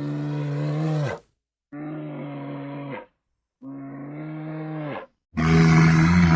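An animal's drawn-out calls, each held at a steady pitch for about a second and dropping at the end, four times with short silences between; the last is the loudest.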